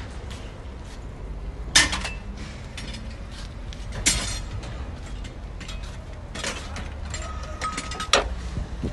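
A few sharp knocks, roughly every two seconds, with lighter clicks between them, over a steady low rumble.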